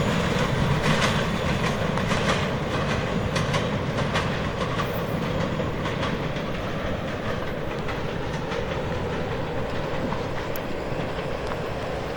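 Cars of a Portland & Western freight train rolling past, wheels clicking over the rail joints, the sound slowly fading as the end of the train goes by.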